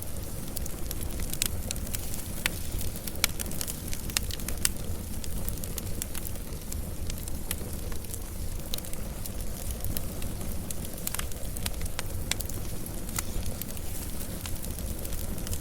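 Wood fire burning, crackling steadily with irregular sharp pops over a low, even rumble of the flames.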